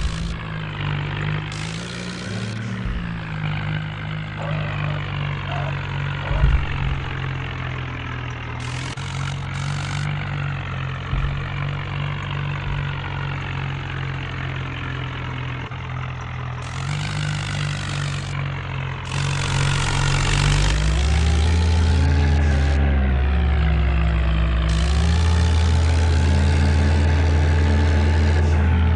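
Tractor engine running steadily, then louder from about twenty seconds in, its pitch rising and falling as it is revved.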